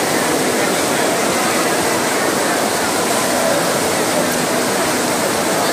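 Heavy tropical rain falling steadily: a dense, even hiss of a downpour.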